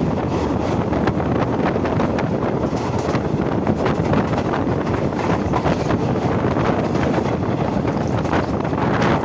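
Passenger train running at speed: a steady rumble with irregular rattling, and wind buffeting the microphone.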